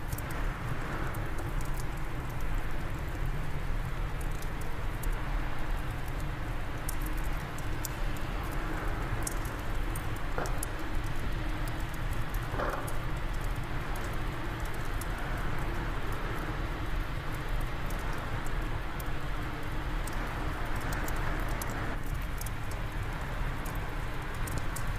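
Wood fire crackling in a fireplace over steady wind: scattered sharp pops and snaps over a continuous low rushing.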